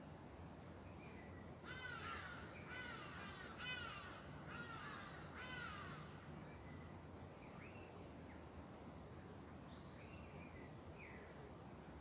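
A bird gives a series of five loud, harsh calls, about one a second, then falls silent. Smaller birds give short scattered chirps and whistles, over the steady low rush of river water.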